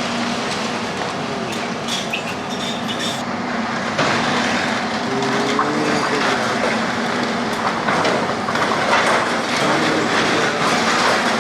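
Heavy demolition machinery working through a building: continuous grinding and clattering of rubble and metal, with a steady low mechanical hum and short metal squeals about halfway through and again near the end.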